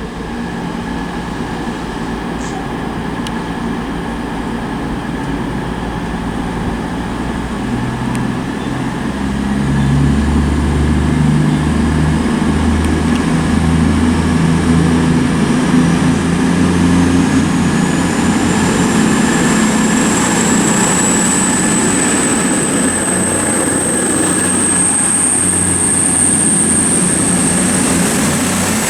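CrossCountry Class 221 Super Voyager diesel-electric unit pulling out. Its underfloor diesel engines rev up about nine seconds in, and a high whine rises and then holds steady through the second half.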